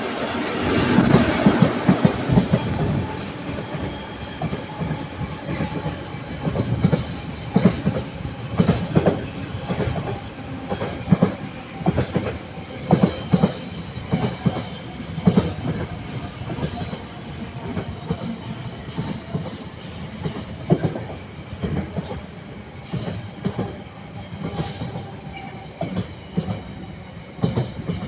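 Long freight train hauled by a pair of Class 90 electric locomotives passing, loudest in the first few seconds, then its wagon wheels clacking over the rail joints in irregular pairs and groups over a steady rumble.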